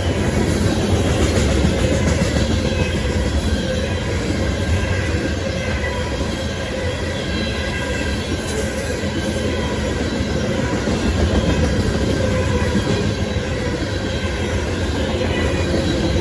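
CSX freight train rolling past, a steady loud rumble of railcars on the rails with faint high wheel squeal throughout.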